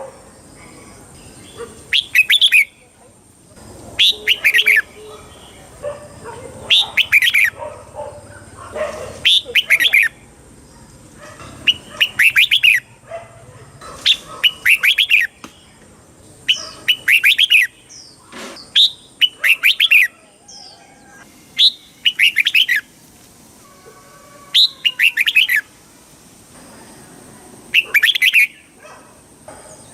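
Red-whiskered bulbul singing: short, loud, bubbling phrases of several quick notes, repeated every two to three seconds, with softer chirps between them.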